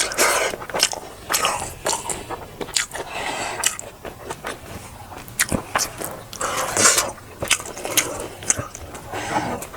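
A person eating close to the microphone: chewing and biting food, with many short wet mouth clicks and smacks.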